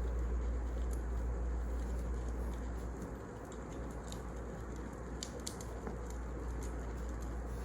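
Wood fire crackling: sparse sharp pops and snaps over a steady low rumble.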